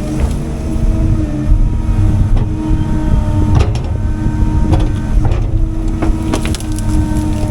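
CAT 310 excavator's diesel engine running steadily under work, with a series of sharp cracks and knocks from wood and debris being broken and moved.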